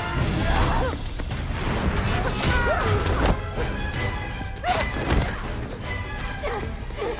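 Dramatic film score mixed with fight sounds: several heavy crashes and thuds, and short shouts or cries.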